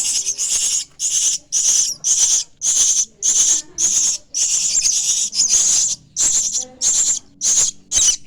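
Nestling starlings (jalak) giving harsh, hissy begging rasps, repeated steadily about twice a second.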